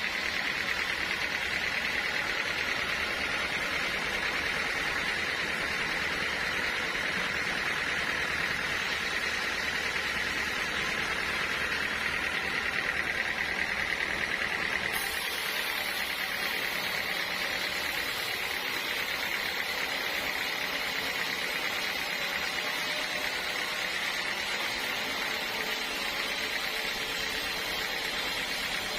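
Sawmill machinery running steadily: a continuous mechanical drone with a hissing band in the upper middle and no breaks.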